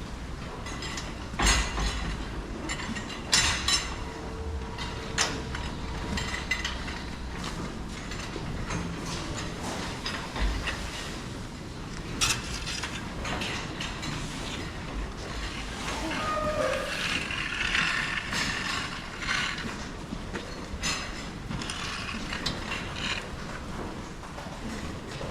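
Irregular metallic clanks and rattles with scattered sharp knocks: the steel feed barrier of a cattle barn being jostled by hungry cows as they eat fodder.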